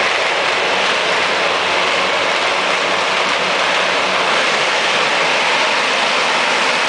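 A pack of 250 cc motocross bikes' engines running together, blending into a dense, steady noise.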